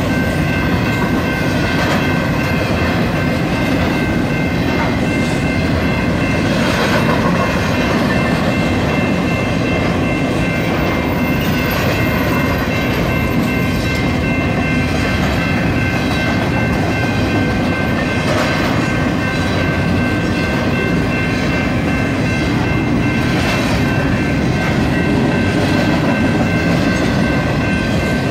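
BNSF intermodal freight train's cars rolling slowly past over a grade crossing: a steady rolling rumble with irregular clacks of wheels over the rail joints every second or two, and steady high-pitched tones over it.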